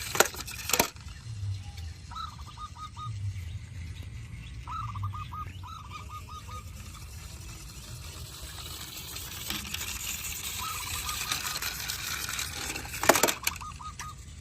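Short runs of quick repeated bird calls, heard several times over a steady background hiss, with a few sharp clacks near the start and one near the end.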